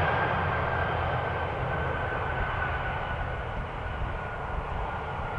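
Jet airliner engines, a rumble with a steady high whine that drifts slightly lower in pitch while the sound slowly fades.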